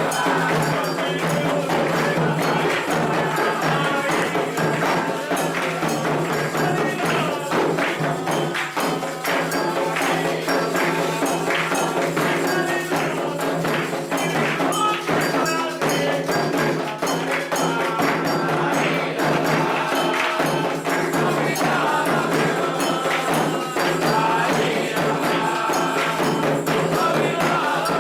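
Candomblé ritual music: atabaque hand drums and metal percussion keep a steady, dense rhythm under voices singing a chant for Oxalá.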